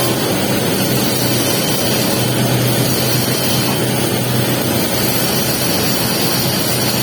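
Welding arc running steadily on a pipe capping pass: an even crackling hiss over a low, constant hum.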